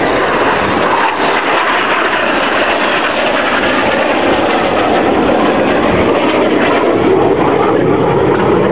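BAE Hawk T1 jets flying past during an aerobatic display, their jet engines making a loud, steady rushing noise.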